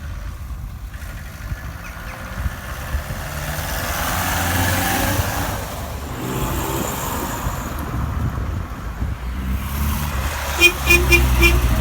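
Car engines running and driving past, swelling and fading, then four quick horn toots near the end.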